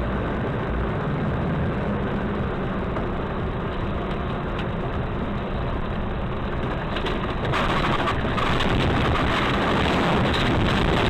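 Steady vehicle engine and road noise picked up by a dash cam, growing louder about seven and a half seconds in.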